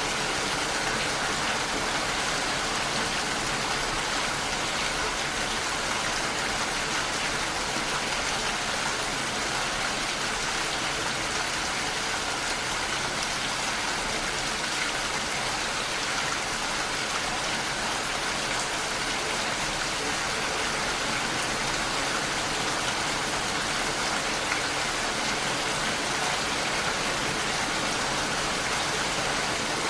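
Steady, even rain falling, with no change in intensity.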